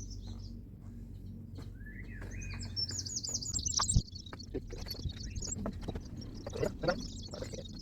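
Small birds chirping and twittering in quick, high runs, with one sharp knock about four seconds in and a low steady hum underneath.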